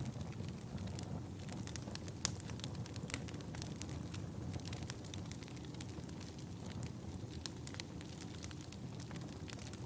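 Wood fire burning in a fireplace: irregular crackles and sharp snaps, several a second, over a steady low rumble.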